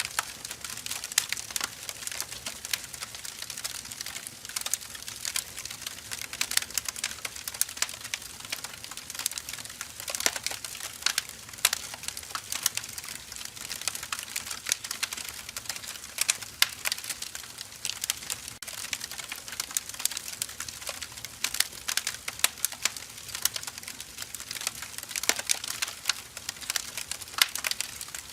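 Firewood logs burning, crackling and popping in irregular sharp clicks over a steady hiss.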